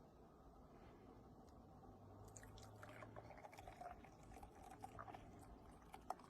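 Near silence: faint room tone with a scatter of soft small clicks, starting about two seconds in.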